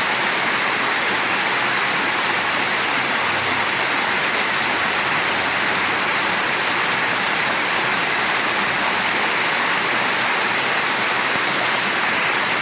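Mountain stream water rushing over rocks: a steady, even rush of water with no change in loudness.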